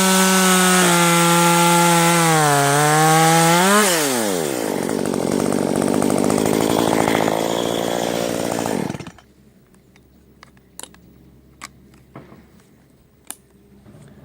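Chainsaw revving at high speed for about four seconds, its pitch dipping and rising, then dropping to a lower, rougher sound for about five more seconds before cutting off sharply. After that it is quiet apart from a few sharp clicks.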